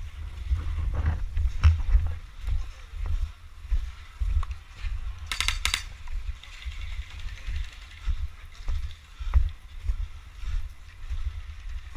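An airsoft electric gun fires a short rapid burst of about five shots, with the gearbox ratcheting, about halfway through. Scattered single clicks and an irregular low rumble run around it.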